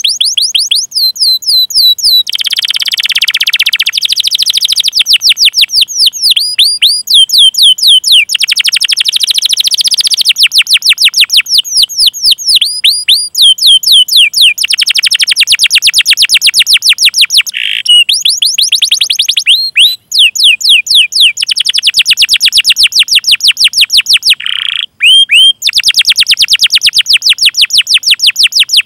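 Domestic canary singing a long rolling song: fast trills of rapidly repeated high notes broken by runs of downward-sweeping 'cuit' chirps, with a couple of brief breaks.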